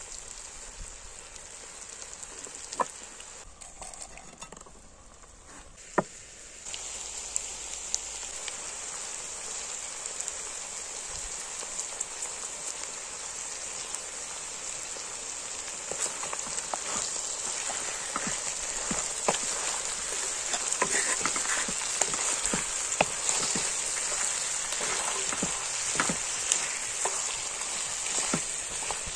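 Food frying in a pan: a steady sizzling hiss with scattered pops and crackles. It gets louder about seven seconds in, and the pops grow busier toward the end.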